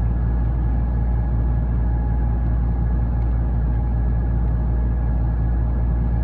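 Steady low machinery drone with faint constant whining tones above it, unchanging throughout.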